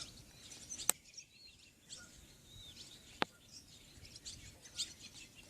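Small birds chirping and twittering, with two sharp clicks, one about a second in and one just after three seconds.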